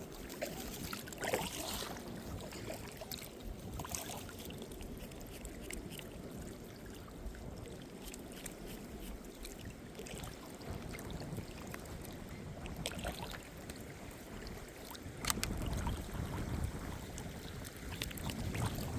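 Kayak being paddled: soft paddle strokes and trickling drips of water, with a few sharp clicks and splashes, and a low rumble coming in from about three-quarters of the way through.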